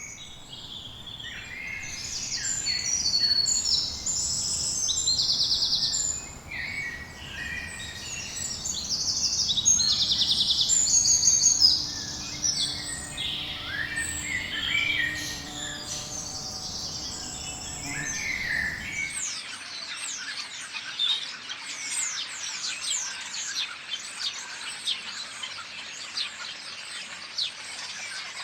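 Tropical birds calling: high trilled and chattering calls, loudest in the first half, changing abruptly about 19 seconds in to a dense chorus of many quick down-slurred chirps.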